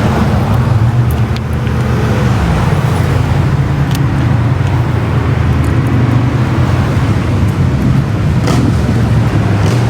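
Car engine running at a steady idle nearby, a loud, even low rumble with a few faint clicks over it.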